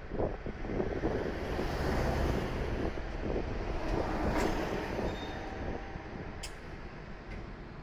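A Tokaido Shinkansen train running past, a steady rushing rumble that swells and then fades away. A sharp click comes near the end.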